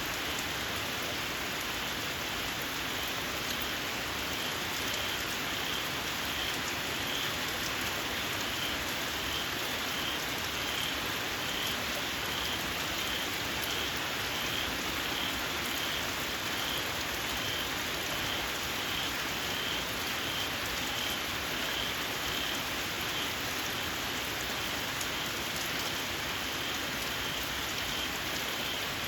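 Steady rain falling. From about five seconds in, a small frog calls over it in a regular series of short, high, shrill notes, about one a second.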